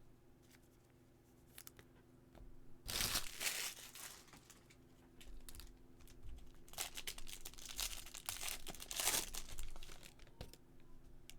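Foil wrapper of a baseball card pack being torn open and crinkled: a burst of tearing and rustling about three seconds in, then a longer one from about seven to nine and a half seconds in, with a few faint clicks between.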